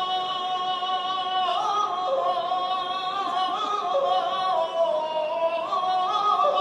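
Holy Week processional band music: a slow melody of long held notes moving in two parallel voices, changing pitch in steps about every second or two.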